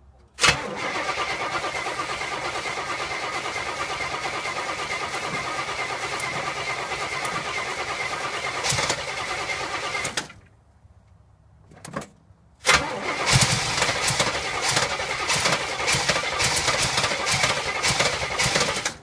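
1971 Oldsmobile Cutlass's carbureted engine cranking and running. It comes in two stretches, one of about ten seconds and one of about six, each starting and stopping abruptly.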